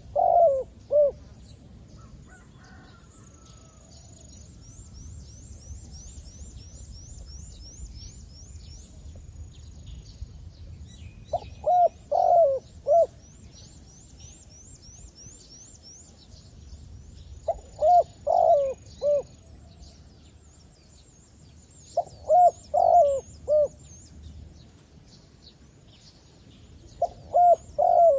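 Decoy zebra dove cooing: short phrases of a few quick, clipped coo notes, repeated five times with pauses of several seconds between them. A faint, high-pitched repeated chirping runs underneath.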